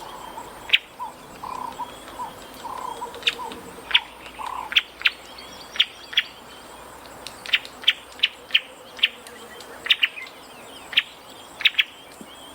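Birds calling outdoors: a run of short, sharp chirps repeating at uneven intervals, with softer warbling notes in the first few seconds.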